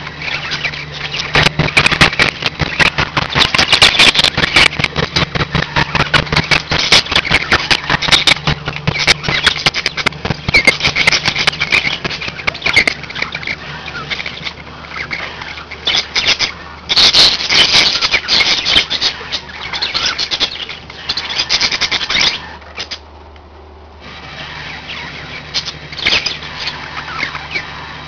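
Several budgerigars chirping and warbling continuously, with many sharp clicks mixed in, over a steady low hum. The chatter breaks off briefly about five seconds before the end, then resumes.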